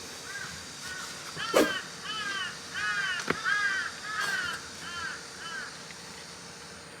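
A crow cawing in a quick series of about a dozen harsh calls, roughly two a second, that fade out after about six seconds. Two sharp knocks come through, about one and a half seconds in and again a little after three seconds.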